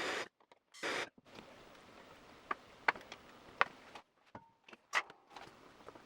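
Two short bursts of hiss in the first second, then a few light, sharp clicks and taps spaced a second or so apart, as of small parts or tools being handled on a bench.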